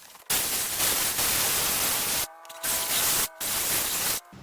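Handheld rotary power tool with an abrasive disc scrubbing old gasket material off the engine's water pump mounting surface, a loud hiss in three long stretches broken by two short pauses.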